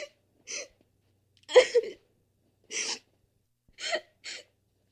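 A person crying in short sobbing gasps and whimpers, about six separate breaths with pauses between, the loudest a double sob about one and a half seconds in.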